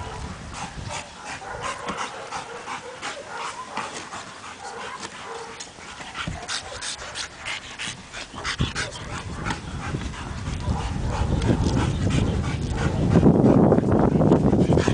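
A dog panting, with short whimpers and yips, during a Mondioring search exercise. A low rumbling noise builds over the last few seconds.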